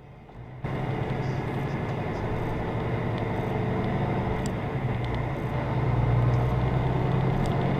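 Steady engine hum and road noise inside a moving car, starting abruptly about half a second in and swelling a little toward the end.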